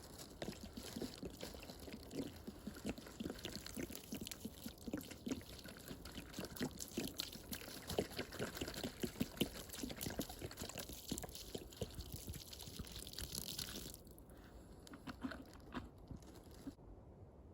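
Wood fire crackling, with many small irregular pops over a steady hiss; the hiss drops away about fourteen seconds in.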